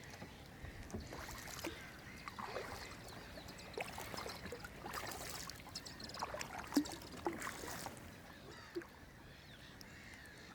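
Kayak paddle strokes dipping and splashing in lake water, a swell of splashing about every two seconds, with small drips and plinks in between.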